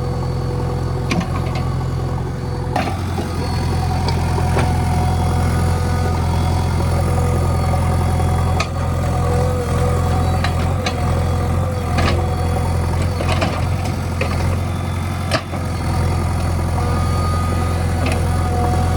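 JCB 3DX backhoe loader's diesel engine running steadily, with a few short knocks and rattles now and then.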